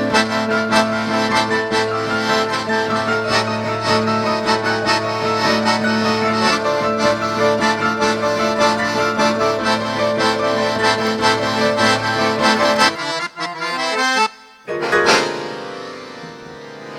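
Electronic keyboard playing the closing instrumental passage of a tango with held chords. It stops about 13 seconds in, and after a short break a last chord sounds and fades out near the end.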